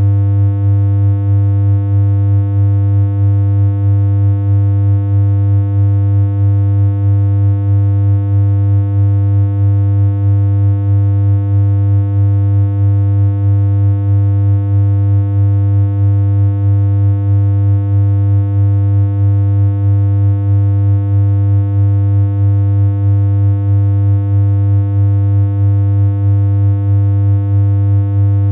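A continuous synthesized electronic hum: one low, unchanging pitched tone with a stack of overtones. It holds steady, with only a slight regular pulse in loudness.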